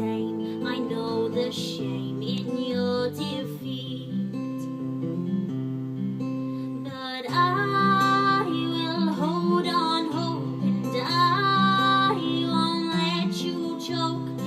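Acoustic guitar strummed steadily under a singing voice, growing louder and fuller about seven seconds in.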